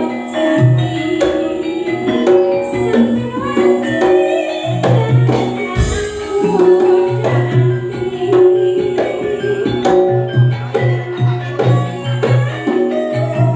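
Campursari music: an ensemble playing with a steady beat of drums and percussion under struck melodic notes.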